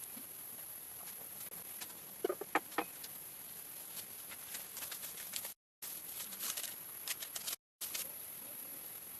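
Quiet outdoor ambience with a steady high hiss and scattered light clicks. A few short bird calls come in quick succession about two seconds in. The sound cuts out completely twice, briefly, in the second half.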